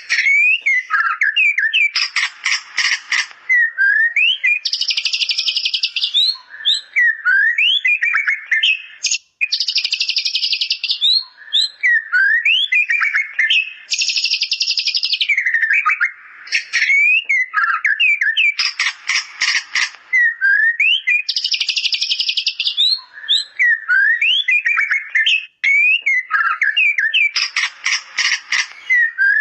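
White-rumped shama singing a song filled with bar-winged prinia (ciblek) imitations: quick rising whistled notes alternating with dense buzzy, rattling phrases, the sequence repeating every several seconds.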